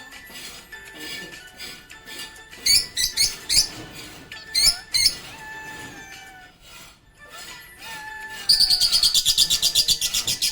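Budgies chirping in short, sharp bursts, then a rapid chattering trill lasting about two seconds near the end. Underneath plays background music with a repeating falling tune.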